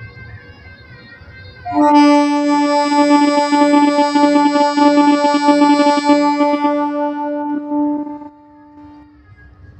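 MEMU train horn sounding one long steady blast of about six seconds, then cutting off with a short fading tail.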